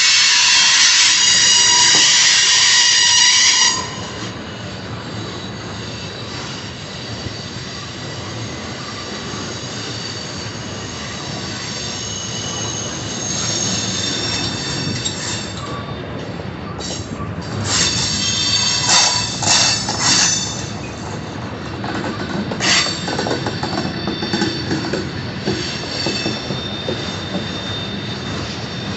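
Freight cars of a manifest train rolling past with metal wheels squealing against the rails. A loud, high, multi-tone squeal cuts off sharply about four seconds in, leaving a steady rolling rumble. Further squeals and clanks come and go about halfway through.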